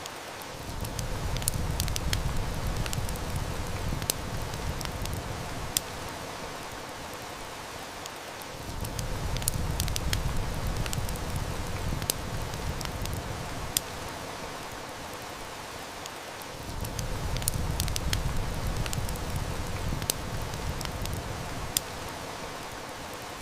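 Steady heavy rain hiss with a wood fire crackling, sharp irregular snaps scattered throughout. Underneath, a low rumble swells and fades three times, each swell lasting about three to four seconds and making the loudest parts of the sound.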